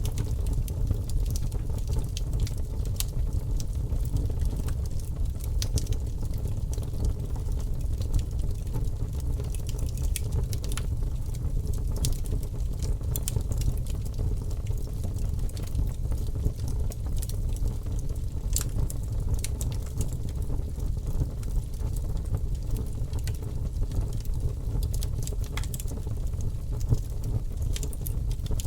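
Fire burning in a fireplace: a steady low rumble with scattered crackles and pops throughout.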